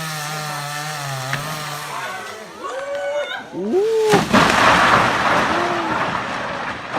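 A chainsaw running steadily, then shouts that rise and fall, and from about four seconds in a loud rushing crash of noise.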